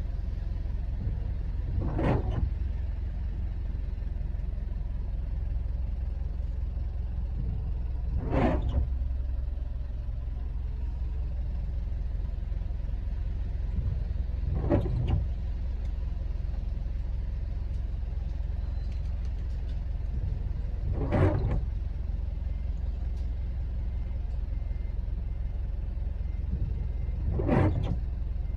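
Car windscreen wipers on an intermittent setting, making one short sweep about every six seconds, five times, over the steady low rumble of an idling car engine.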